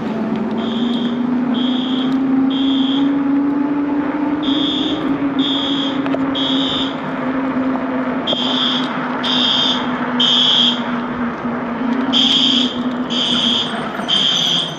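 An electronic alarm beeping in repeated groups of three high beeps with a short pause between groups, the three-pulse pattern of a fire or smoke alarm. A steady low hum runs underneath.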